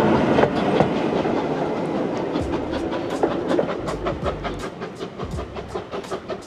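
Steam train running past close by, its wheels clicking over the rail joints in a regular clickety-clack that fades as the train draws away.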